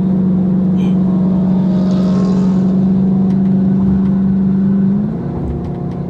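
Car engine holding a steady, loud drone while cruising, heard from inside the cabin. A little after five seconds the pitch steps up slightly and it gets somewhat quieter.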